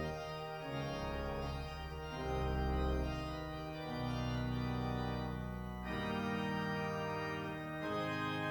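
Organ playing slow, sustained chords that change every second or two, as in a hymn or prelude at a church service.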